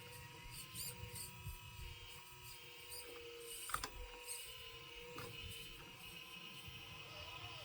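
Homemade 1/12-scale radio-controlled metal excavator working: its small motors run with a steady whine while metal parts click and knock, loudest just under four seconds in.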